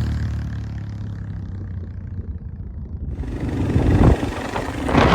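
Low rumble from a motorcycle ride with no clear engine note. About three seconds in the sound changes abruptly, and gusty swells of rumble follow toward the end.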